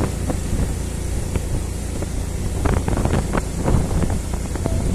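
A road vehicle in motion: a steady low rumble of engine and road, with wind rushing over the microphone. A flurry of sharp clicks and knocks comes a little past halfway.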